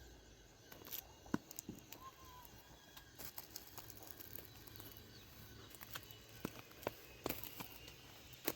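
Scattered light knocks and clicks at irregular intervals, with a faint short chirp about two seconds in.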